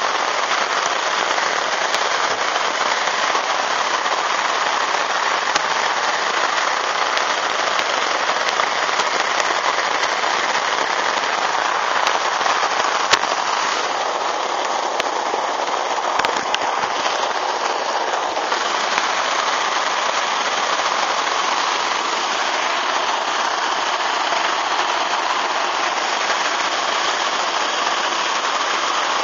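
Heavy downpour: dense, steady rain pelting the lake and the umbrella canopy overhead, with a couple of sharp ticks midway.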